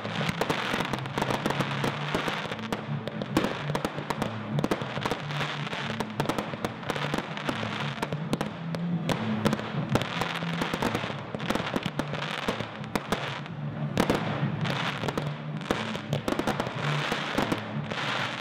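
Aerial fireworks going off in quick succession: a dense, continuous run of sharp bangs and crackling bursts, with launches and breaks overlapping.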